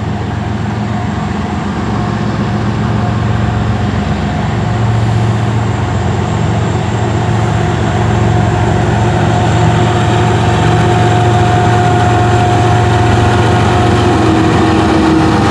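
CN freight train's diesel locomotives running at low speed at a grade crossing, a steady low engine rumble that slowly grows louder.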